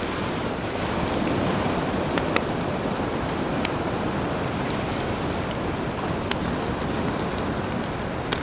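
Campfire crackling with scattered sharp pops over the steady wash of sea waves.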